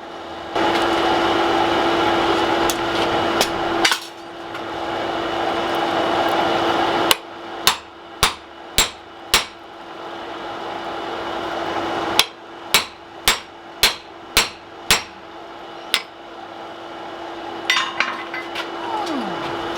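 Hammer blows driving a drift into the hot punched eye of a mild-steel axe head, in two runs of sharp strikes about two a second: five, then about seven. A steady rushing noise with a hum fills the gaps between the runs.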